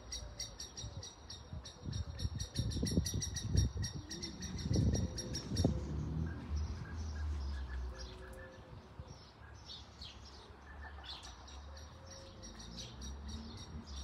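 Garden birds chirping: a rapid, even run of high chirps, several a second, stopping about six seconds in and starting again near the end, with scattered softer calls between. Low rumbling thumps on the microphone are loudest in the first six seconds.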